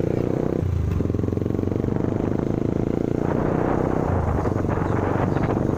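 Motorcycle engine running close by, a steady fast low pulse. From about three seconds in, a broader, harsher noise rises over it.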